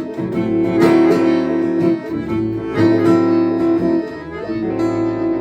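Closing bars of a folk song on strummed acoustic guitar with violin and accordion. About four and a half seconds in, the strumming stops on a final chord that is held and slowly fades.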